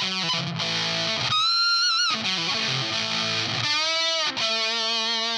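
Electric guitar played through a Sola Sound Mk IV Tone Bender fuzz pedal, giving a thick distorted tone: chords and lines, then sustained notes shaken with vibrato, about a second in and again near four seconds in.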